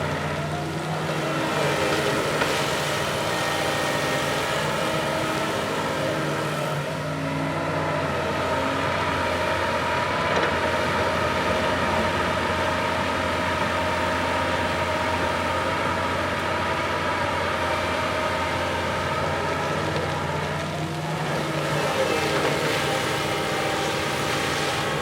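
Backhoe loader's diesel engine running steadily under working load. Its note shifts about a second in and again about 21 seconds in.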